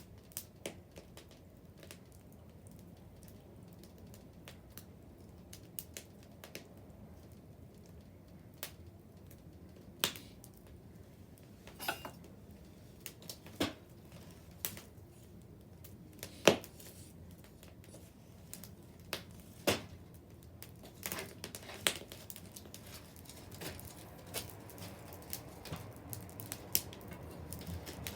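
Wood bonfire crackling: irregular sharp pops and snaps over a low steady rush of the burning fire, the pops coming more often in the second half.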